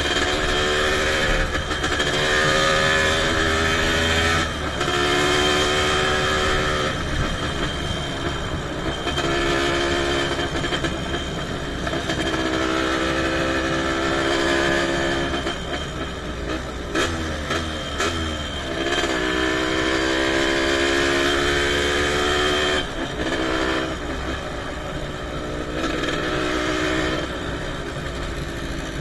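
Motocross dirt bikes racing, their engines revving hard. The pitch climbs and drops again every few seconds as the riders accelerate and shift.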